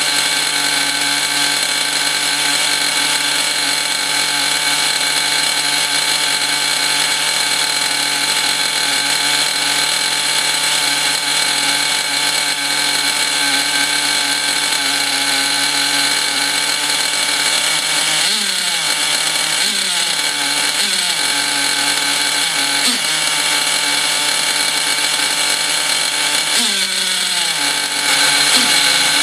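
Restored O.S. Max glow-fuel two-stroke model engine running at high speed on its break-in run with a very rich needle setting, mounted on a wooden crate. It holds a steady high pitch at first; from a little past halfway its speed sags and picks up again about six times. The rough running is blamed by the owner mostly on two-year-old fuel and an exhaust not suited to the engine.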